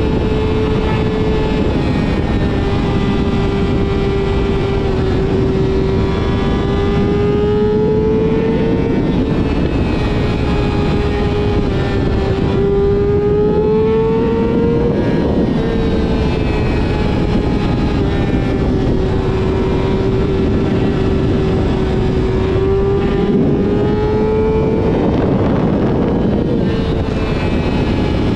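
Yamaha YZF-R6 inline-four sport bike with a full aftermarket exhaust system, ridden at steady high revs. The engine note holds high and even, sagging slightly and rising again a few times with small throttle changes.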